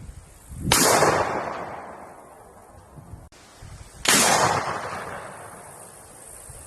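Two single gunshots about three and a half seconds apart, each a sharp crack followed by a long fading echo.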